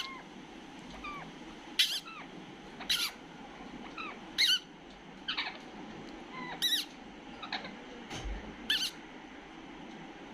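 Pet parrot calling: short, sharp calls with a bending pitch, repeated about once a second.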